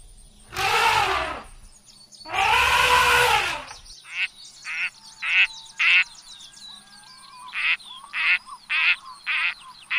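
African elephants trumpeting: two long calls of about a second each that rise and fall in pitch. Then mallard quacking: short quacks about every half second in two runs, with faint small-bird song behind.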